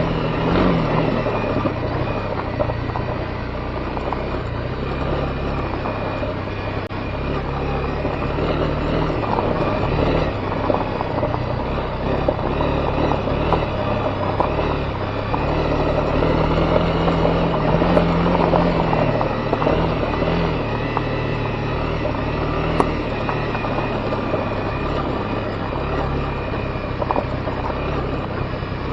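Honda CB250R's single-cylinder engine running under way on a dirt road, its pitch stepping up and down with throttle and gear changes, over a steady noise of tyres and wind.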